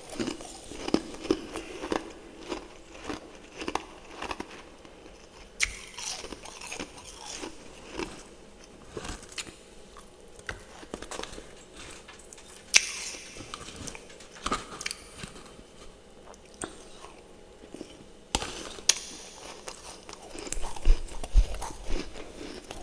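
Close-up crunching and chewing of refrozen freezer frost: brittle icy crackles and sharp crunches between the teeth, with a few louder bites.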